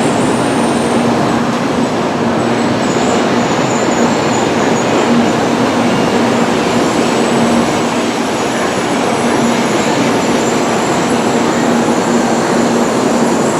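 Tokaido Shinkansen train moving along the platform: a steady, loud rush of running noise with a constant hum underneath.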